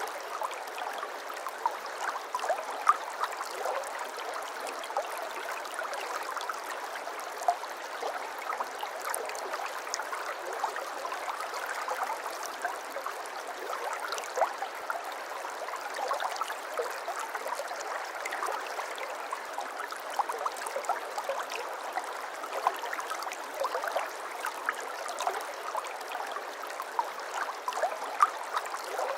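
Water flowing and trickling steadily over stones, a stream with a dense babble of small gurgles and splashes.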